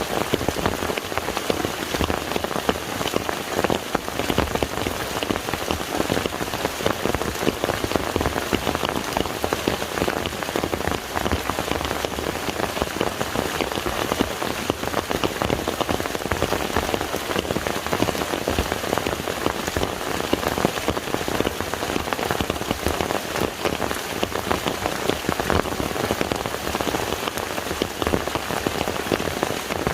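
Steady rain falling onto a lake's surface: a dense, even patter of countless drops.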